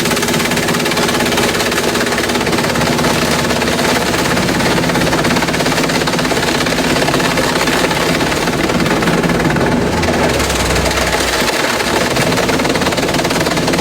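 Industrial bamboo shredder running under load as bamboo goes through it: a steady machine drone under a dense, rapid cracking clatter, loud and unbroken.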